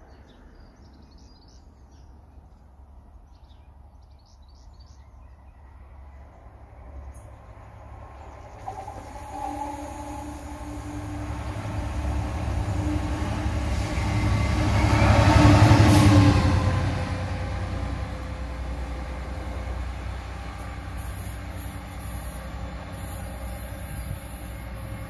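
Train approaching and passing at speed, building from a faint rumble to loudest about two-thirds of the way in as the locomotive goes by, then the wagons rolling past with a steady rumble and a faint high squeal near the end.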